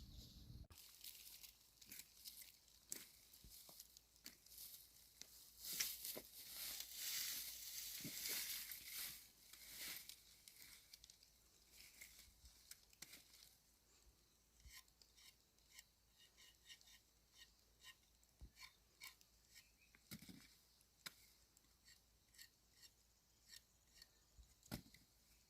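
Faint rustling and scattered light clicks and taps, with a louder crackly rustle from about six to ten seconds in.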